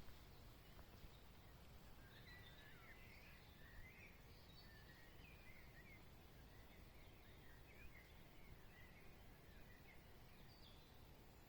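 Faint birdsong: a small bird calling in quick chirping phrases, starting about two seconds in and again near the end, over a low steady background hum of outdoor air.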